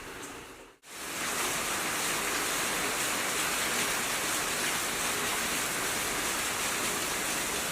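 Heavy rain falling in a steady, even hiss. It starts after a short break about a second in.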